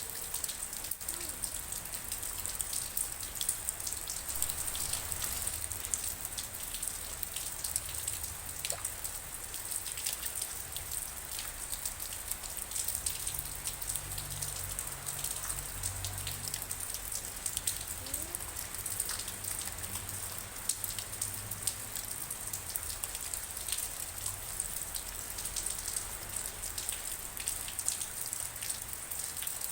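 Steady rain falling, with many individual drops ticking close by, and a faint low rumble in the middle.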